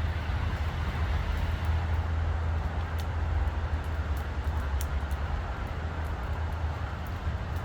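Steady low rumble of distant road traffic, with a few faint crackles from a nearby campfire.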